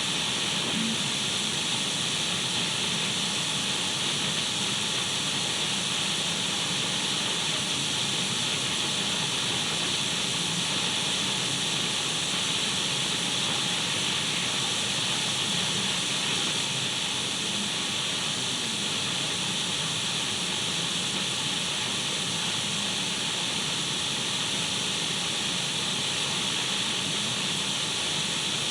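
Steady radio static: an even, unchanging hiss of an untuned radio, strongest in the upper middle of the range, used as white noise for sleep.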